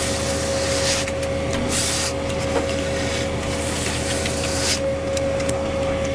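Concrete truck engine running steadily with a constant whine, while wet concrete is scraped and spread in several short hissing strokes.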